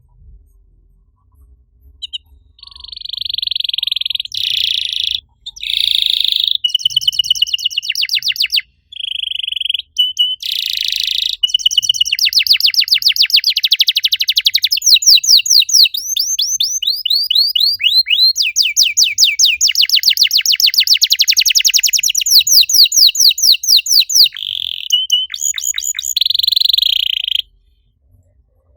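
Domestic canary singing a long song: buzzy rolling trills, then long runs of rapid repeated notes that each sweep quickly downward, broken by a few brief pauses. It stops shortly before the end.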